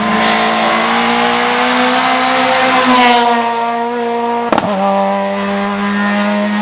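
Hill-climb race car's engine held at high revs, its pitch steady and sliding slightly down, growing louder as it nears. About four and a half seconds in, a sharp crack and a step down in pitch mark a gear change, then the engine pulls high again.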